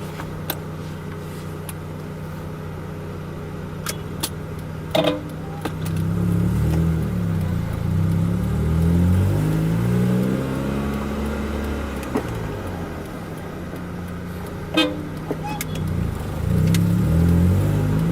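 Honda F22B1 2.2-litre four-cylinder engine ticking over, then pulling away and accelerating. Its pitch climbs in steps with the gear changes, falls back around the middle and climbs again near the end. A car horn toots briefly about five seconds in and again around fifteen seconds.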